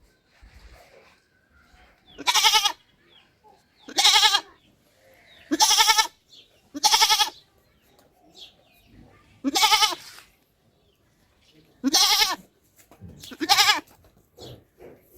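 Goat bleating: seven short, wavering bleats, a second or two apart.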